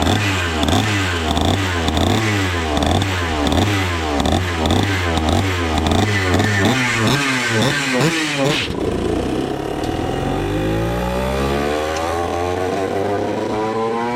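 Vintage racing go-kart's 135cc Sudam engine at high revs with a regular wavering pitch. About two-thirds of the way through it drops off the throttle, then climbs steadily in pitch as it accelerates again.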